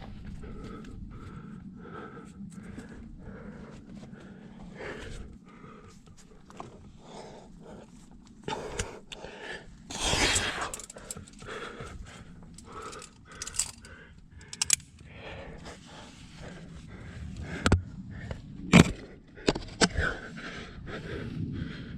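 A climber breathing hard, with scrapes and sharp clicks of body and gear against rock. A louder rush of breath or noise comes about halfway through, and several sharp clicks come near the end.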